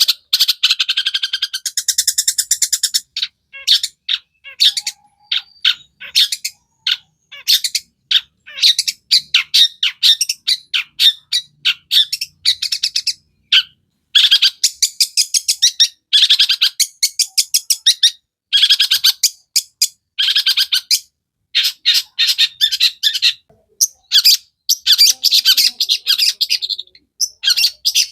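Long-tailed shrike (cendet) in full song: a loud, rapid chattering run of quick, harsh and whistled notes broken by short pauses, laced with mimicked calls of other birds.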